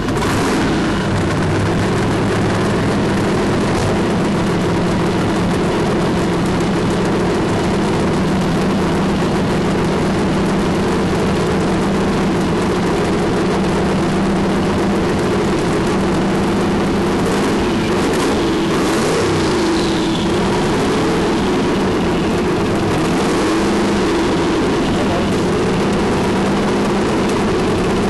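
Twin-turbocharged 515 cubic inch Merlin big-block V8 in a 1953 Studebaker idling steadily at a constant pitch, heard from inside the car, firing on all eight cylinders.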